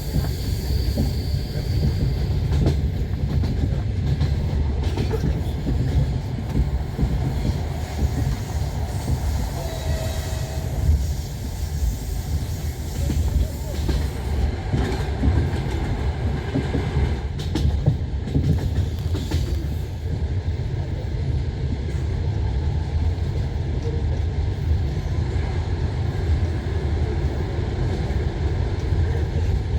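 Passenger train running along the line, heard from inside the carriage: a steady low rumble of wheels on rails with irregular clacks of the wheels.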